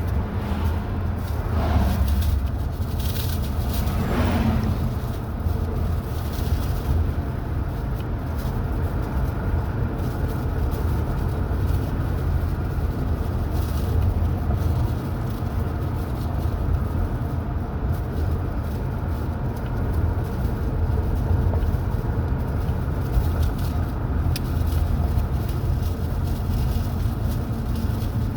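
A car driving at steady speed: a constant low engine and road rumble. A few brief shifts in the sound come in the first few seconds.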